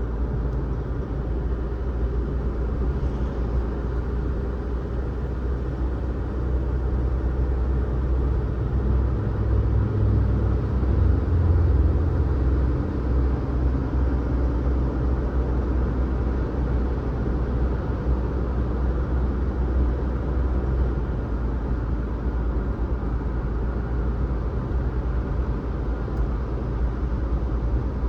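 A car driving along a road: a steady low rumble of engine and tyre noise that grows a little louder about ten to twelve seconds in.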